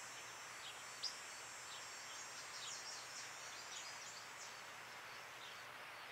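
Faint background ambience with small birds chirping now and then: short, high, falling chirps over a steady hiss, one a little louder about a second in.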